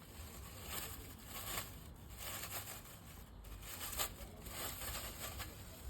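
Faint rustling and scraping handling noise in a string of short, irregular bursts, with one sharper knock about four seconds in.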